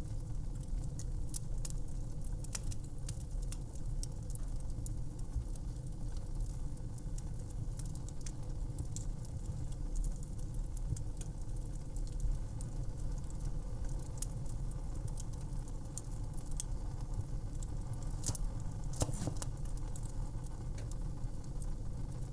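Fireplace fire crackling: a steady low rumble of flames with frequent sharp pops and snaps, several louder pops close together near the end.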